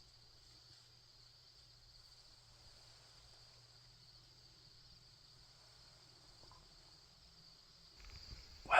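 Faint, steady chorus of crickets trilling at one high pitch.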